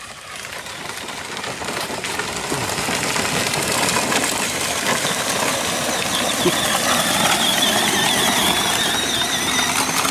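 Battery-powered ride-on toy truck running: its electric motor and gearbox whine steadily with the tyres working over the trail, growing louder over the first few seconds.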